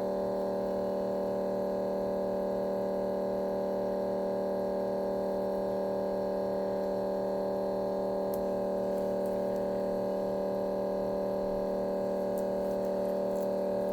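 Steady electrical mains hum, made of several fixed tones that do not change, with a few faint light clicks about eight seconds in and again near the end.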